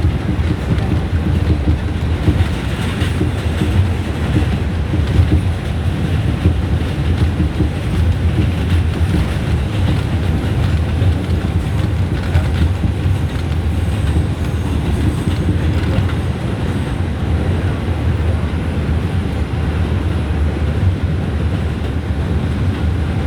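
R142 subway train running at speed between stations: a steady rumble of wheels on rail with a rattling clatter, heard from inside the car.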